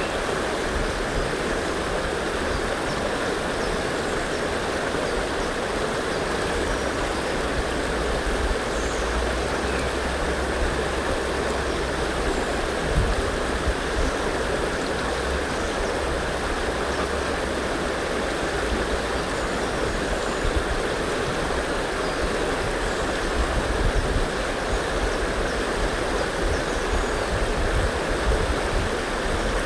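River flowing steadily: a constant rushing of water with no let-up, and a few faint, short high chirps from birds now and then.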